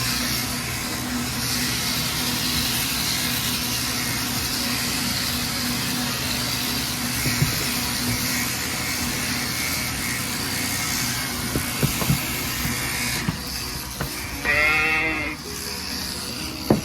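Electric sheep shears running with a steady motorised hum and hiss, with a few knocks. About three-quarters of the way through, a sheep bleats once.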